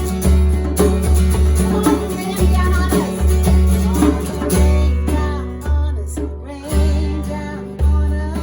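Worship band music: acoustic guitar strumming over a steady, repeating bass, with some singing.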